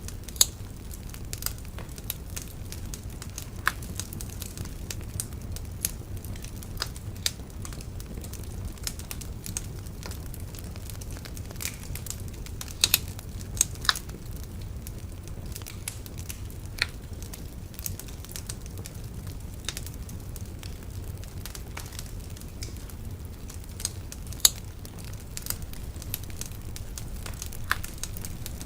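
Wood bonfire burning steadily, crackling with irregular sharp pops of varying loudness over a low rumble from the flames.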